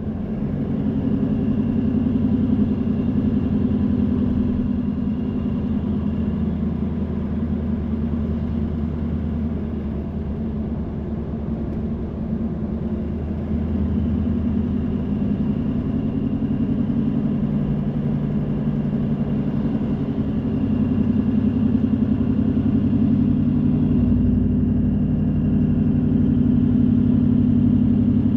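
Car engine hum and road noise heard from inside the cabin while driving. The engine note drops about ten seconds in, then climbs again as the car picks up speed and holds steady near the end.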